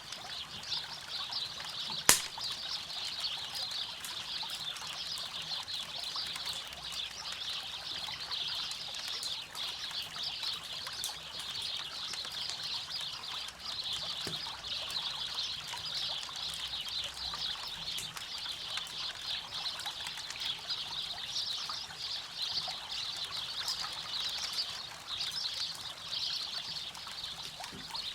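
River water rushing steadily, with a campfire's burning wood crackling over it in scattered small pops and one sharp, loud pop about two seconds in.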